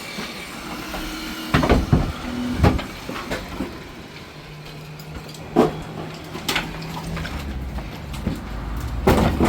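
Several sharp knocks and thuds, spread irregularly over a low rumble, with a steady hum from about four to seven seconds in.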